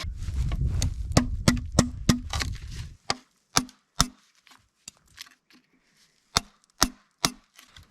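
An axe striking a wooden pole, cutting notches for a table leg: a quick run of sharp knocks over a low rumble for the first three seconds, then single strikes spaced apart.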